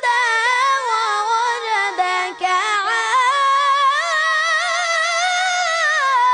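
A child's high voice chanting Quran recitation in melodic tajweed style, drawing out long, wavering notes on the word 'fahadā'. There is a short break for breath about two and a half seconds in, and then the next verse begins with 'wa wajadaka'.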